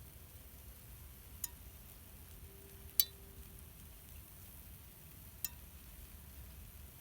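Wood campfire crackling, with three sharp pops about a second and a half apart, the middle one the loudest, over a faint steady low background.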